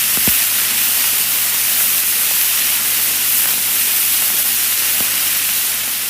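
Vinyl record surface noise: a steady crackling hiss with a faint low hum and scattered pops, the clearest about a third of a second in and another about five seconds in.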